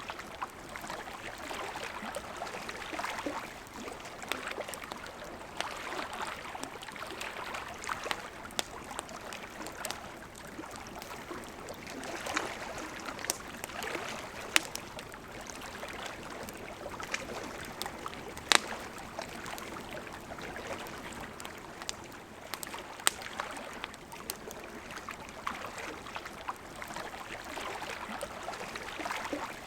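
A river babbling steadily, with a wood campfire crackling over it in scattered sharp pops.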